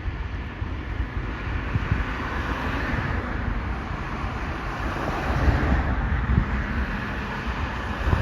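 Wind buffeting the microphone in gusts, over a steady rumbling hiss that swells for a few seconds in the middle.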